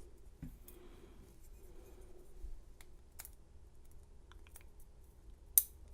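Scattered small metallic clicks of tweezers picking the pins out of a Schlage deadbolt cylinder, with one sharper click near the end.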